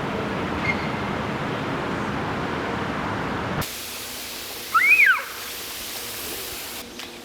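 Steady vehicle road noise that cuts off abruptly about three and a half seconds in, giving way to a high hiss and one short, loud call that rises and falls in pitch, then a quieter stretch near the end.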